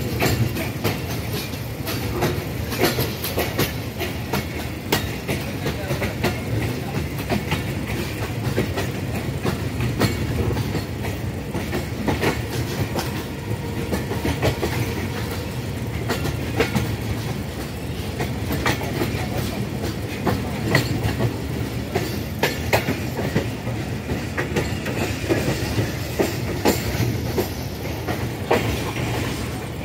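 Millat Express passenger train running along the track: a steady rumble with frequent, irregular clicks and clatter of the wheels over the rails.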